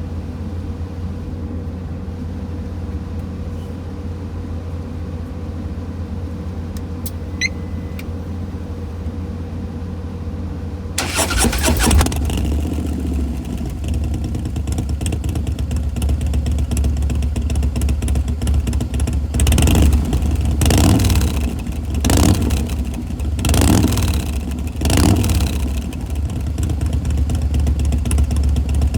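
2017 Harley-Davidson CVO Pro Street Breakout's V-twin running through a Bassani Road Rage 3 exhaust. It idles with a deep, steady rumble, then gets much louder about eleven seconds in. Near the end come five quick throttle blips about a second apart.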